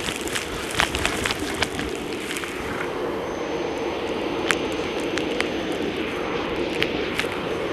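Dyson Light Ball upright vacuum running steadily with a thin high whine, sucking up crunchy debris that clicks and crackles through it, thickly in the first couple of seconds and then only a few scattered clicks.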